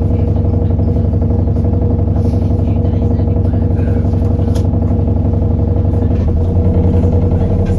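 Alexander Dennis Enviro400 bus's diesel engine heard from on board, running with a steady drone and a few light rattles. About six seconds in its note drops and a coarse rhythmic pulsing comes in, a little louder.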